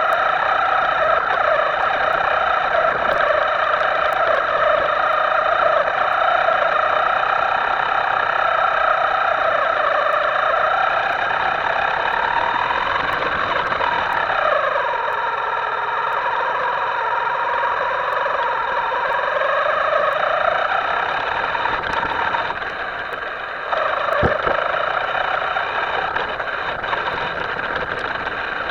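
Small electric motor of a radio-controlled model whining steadily. Its pitch falls and rises with the throttle, dropping about halfway through and briefly again near the end, with a few sharp clicks.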